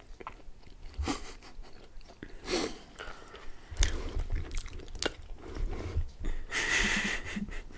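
Close-miked chewing and biting of baked pastry, with scattered wet mouth clicks and crunches and a short louder rustle near the end.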